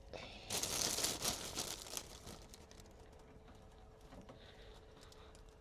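A burst of crinkling, rustling handling lasting about a second and a half, soon after the start, as vegetables and their packaging are handled and dropped into a hot pot, followed by a few faint ticks.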